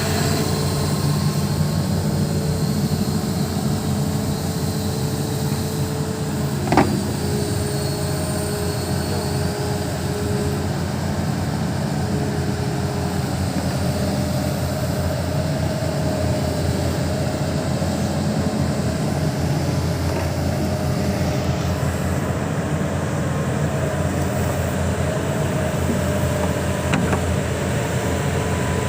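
Hitachi 210 excavator's diesel engine running steadily, with one sharp knock about seven seconds in.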